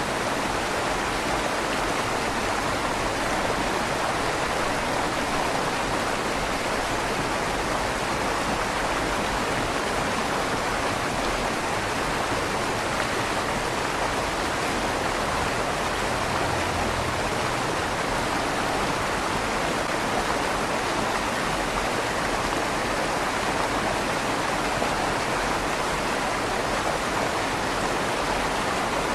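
River water flowing steadily under a stone bridge, an even rushing with the slight echo of the stone tunnel.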